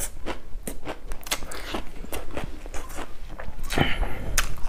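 Close-miked chewing and crunching of singju, fresh leafy greens and herbs, heard as a quick run of short crisp clicks.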